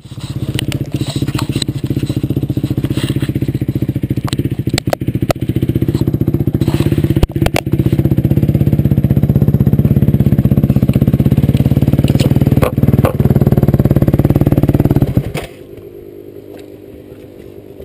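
Motorcycle engine running loudly with a fast, even firing rhythm, with scattered sharp clicks and knocks over it; the engine sound drops away sharply about fifteen seconds in.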